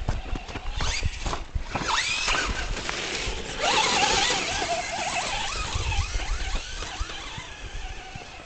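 Electric motors and geartrains of radio-controlled Traxxas Slash 4x4 trucks whining as they are throttled on a dirt track. A few knocks come in the first couple of seconds, then quick rising whines as the trucks accelerate, and from a few seconds in a denser wavering whine that fades near the end.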